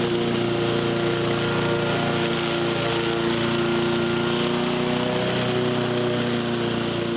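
Honda HR216 walk-behind lawn mower's single-cylinder engine running steadily at a fairly even speed.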